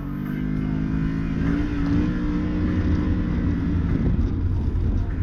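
Can-Am Maverick Sport X mr side-by-side's V-twin engine running under load at a steady pitch. Its tone breaks up into a rougher rumble about four seconds in.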